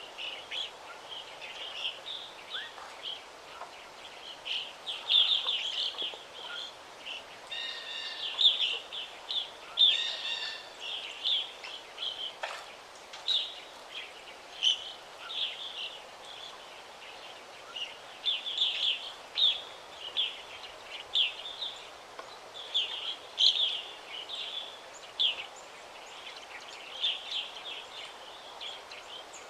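Forest birds singing and chirping, many short calls in quick succession, over a steady background hiss.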